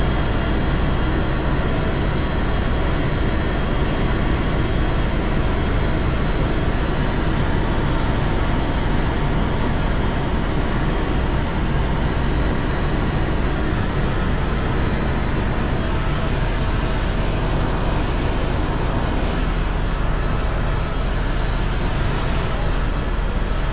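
Steady vehicle running noise: a constant heavy low rumble with faint steady whining tones above it, unchanging throughout.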